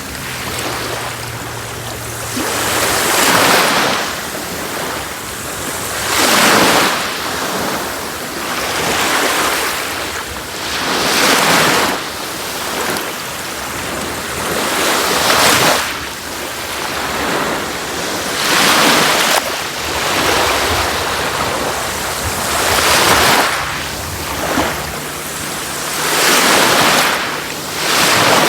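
Sea waves washing onto a shore, the surf rising to a peak and falling back every three to five seconds.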